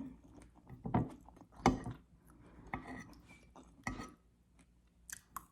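Dishes and cutlery handled at a table: four separate knocks and clinks spread over a few seconds, with a few small clicks near the end.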